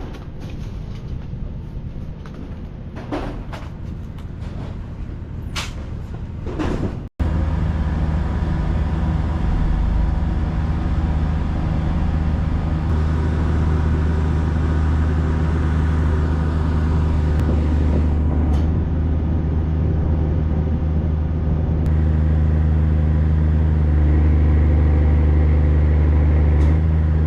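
A few sharp knocks over a low rumble, then after an abrupt break a loud, steady engine running. Its level steps up slightly later on.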